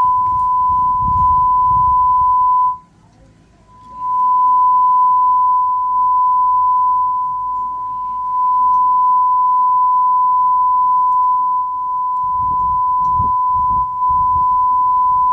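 Steady 1 kHz sine test tone played through a McIntosh MC240 tube amplifier. It drops out for about a second around three seconds in, then swells back up.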